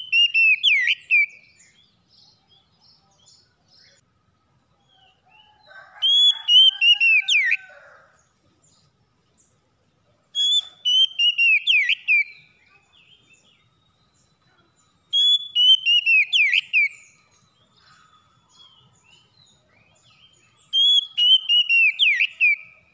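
Oriental magpie-robin (kacer) singing: a whistled phrase of falling notes about two seconds long, given five times, roughly every five seconds. A fainter, lower-pitched call comes in under the second phrase.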